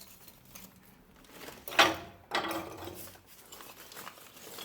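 Light rustling and small clicks of wood shavings and kindling being handled and laid in a fireplace, with a short louder knock or scrape about two seconds in.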